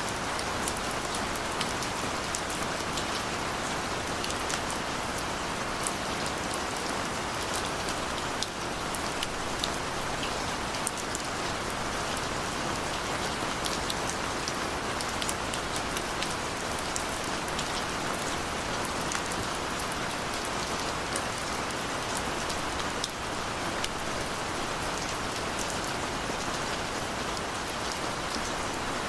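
Steady rain falling, with a dense patter of individual drops over an even hiss.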